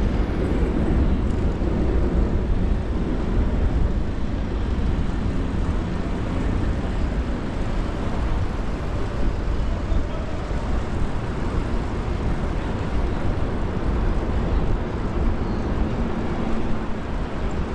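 Steady wind and road rumble on a body-mounted action camera's microphone while riding a bicycle through city traffic, heaviest in the low end.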